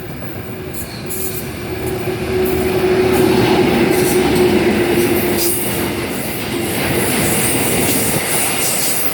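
A train passing close by at a railway station: loud rumbling wheel and carriage noise with repeated clacks, swelling to its loudest about three seconds in, and a steady squeal-like tone that fades out about two thirds of the way through.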